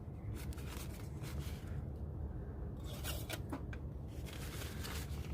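Light clicks and rustling from handling, scattered over a steady low hum.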